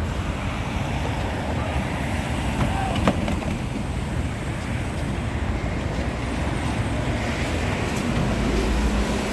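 Steady low rumble and hum of a standing LVS-86K articulated tram mixed with street traffic, with a sharp click about three seconds in. A low hum grows louder near the end.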